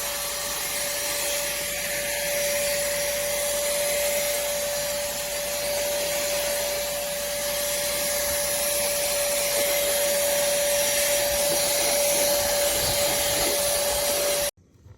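Cordless handheld vacuum cleaner running steadily: a rushing hiss of air with one steady whine. It is switched off near the end and cuts out suddenly.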